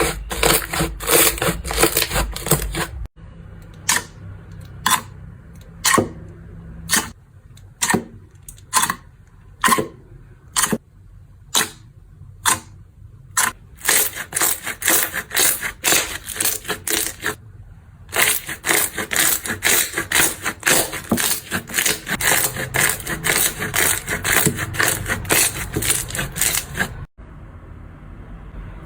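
Slime being squished and poked by hand, giving fast runs of crackling clicks and pops. In between comes a slower stretch of separate single pops, about one or two a second, before the dense crackling returns.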